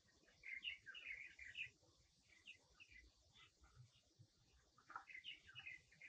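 Faint bird chirping: quick high notes in two bursts, one shortly after the start and one near the end.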